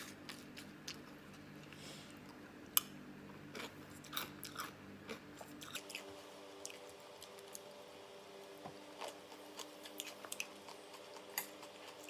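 Faint chewing and crunching of crisp food, a string of small irregular crunches, over a faint steady hum.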